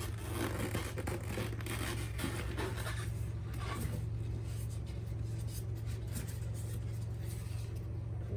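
Wood fire crackling with irregular small pops and scratchy snaps, over a steady low hum.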